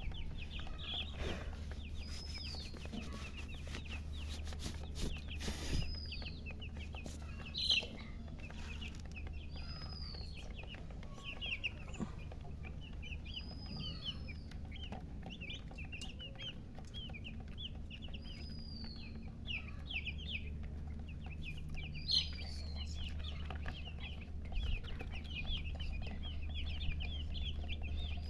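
A brood of baby chicks peeping in a rapid, continuous stream of short high chirps, with a higher chirp repeating every few seconds. A steady low hum runs underneath.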